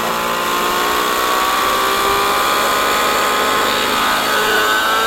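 Gaui NX7 RC helicopter's nitro engine running steadily, a high whine that climbs slowly in pitch as the rotor speed builds.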